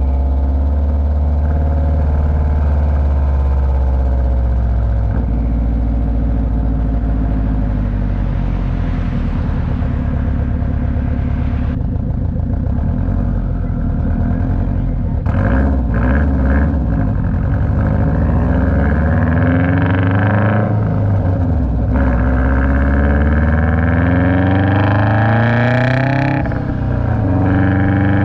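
Car engine accelerating on the road, its pitch climbing and then dropping sharply several times, as on upshifts through the gears.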